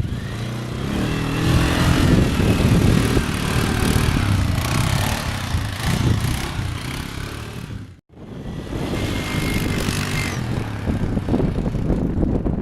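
A vehicle engine running and revving, its pitch rising and falling. The sound cuts off abruptly about eight seconds in and then resumes.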